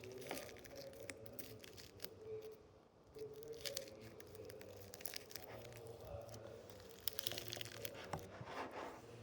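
Crinkling and crunching: a run of small dry crackles from something crisp being handled, such as cereal or a packet.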